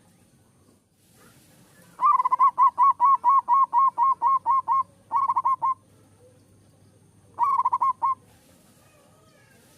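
Zebra dove (perkutut) cooing: a fast run of about a dozen clear, evenly spaced notes starting about two seconds in. Two shorter bursts of a few notes each follow.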